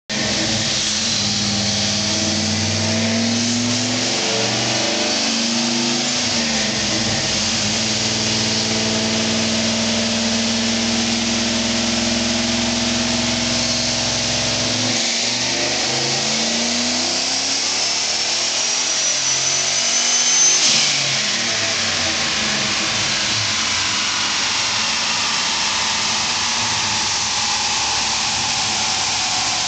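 Turbocharged 1998 Ford Mustang Cobra's 4.6-litre DOHC V8, with a 76 mm turbo, running on a chassis dyno. The engine climbs in pitch in steps, then makes a long full-throttle pull with a high turbo whine rising alongside it. About twenty seconds in, the run peaks and cuts off, and the engine and whine wind down.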